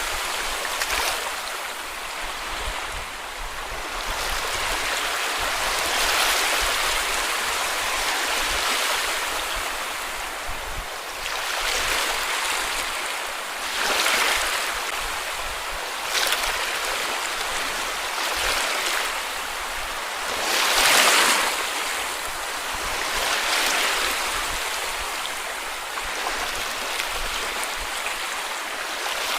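Small sea waves breaking and washing up on a beach, a continuous rushing hiss that swells as each wave comes in, every few seconds and at uneven intervals, with one of the largest swells about two-thirds of the way through.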